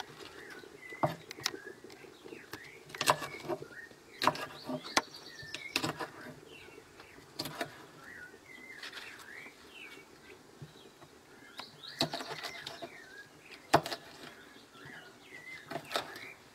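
Small birds chirping and twittering over and over, with a few sharp knocks now and then and a faint steady hum underneath.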